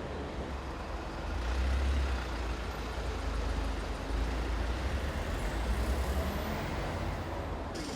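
Road traffic noise: a low rumble of heavy vehicles such as trucks or buses passing, swelling louder twice.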